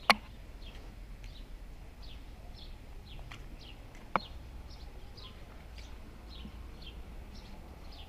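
A bird chirping over and over in short falling notes, two or three a second, with a sharp click right at the start and another about four seconds in.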